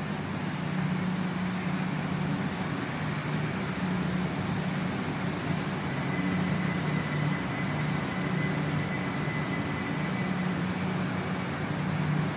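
Electric multiple-unit passenger train moving past along the platform: a steady rolling rumble with a low hum, and a faint high whine in the middle.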